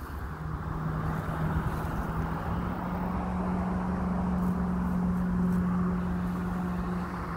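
A motor vehicle engine humming steadily, its pitch rising a little in the first few seconds, then holding and dropping near the end, over constant outdoor background noise.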